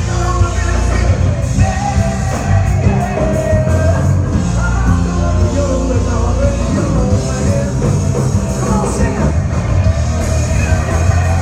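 Loud rock band playing, with a singer carrying the melody over heavy bass and drums.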